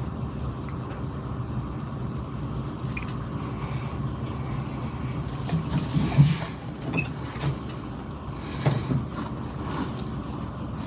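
Truck engine idling steadily, with a few brief irregular knocks and rustles about halfway through and again near the end.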